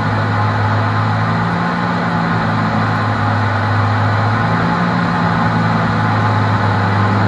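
BMW race car's engine running at a steady pitch at speed, heard from inside the stripped, roll-caged cabin with road and wind noise.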